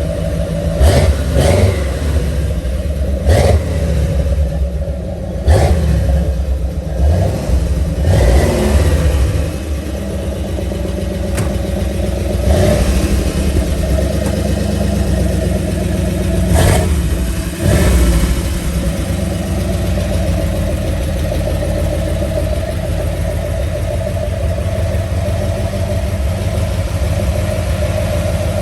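Old Cadillac's engine running just after a cold start, blipped on the throttle about nine times over the first eighteen seconds, then settling into a steady idle.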